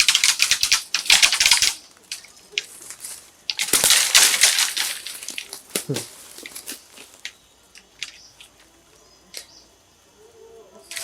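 Crackling, rustling noise in two loud bursts, over the first two seconds and again around four seconds in, then fainter scattered crackles.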